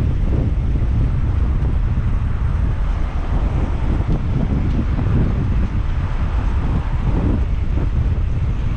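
Strong wind buffeting the camera microphone, a steady loud rumble that comes through even with a wind guard fitted.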